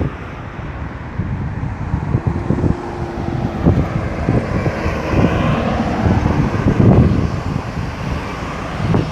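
Road traffic moving through a busy roundabout: engines running and tyres on the road, with one vehicle swelling up and passing closest about midway. Gusts of wind buffet the microphone.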